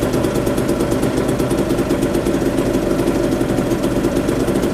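Two-stroke moped engine idling steadily, with a fast, even pulse.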